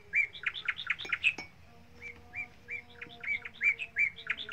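A small bird chirping over and over: short, high chirps several a second, in runs with brief pauses.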